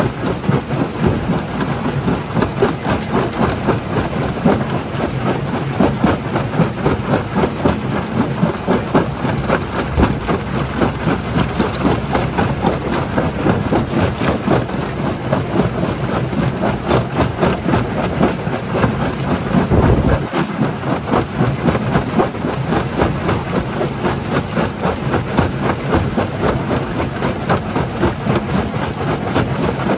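Jaw crusher running and crushing rock: a continuous rapid clatter of knocking stone over a steady engine drone, with a heavier low thump about twenty seconds in.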